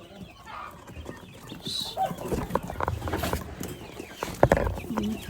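Domestic quails in a cage: one short high call, then scattered scratching, clicking and knocking as the birds and a hand move about among them.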